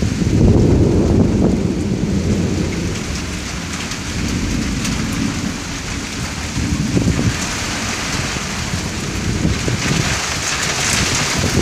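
Thunder rumbling over steady heavy rain, the low rumble loudest in the first few seconds, then easing and swelling again later.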